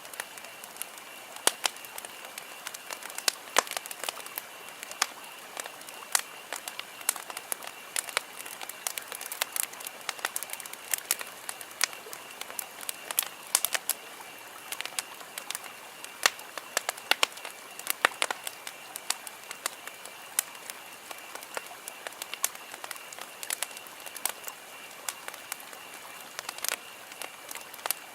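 Wood campfire crackling: irregular sharp pops and snaps from the burning logs, several a second at times, over a soft steady hiss, with a faint steady high tone underneath.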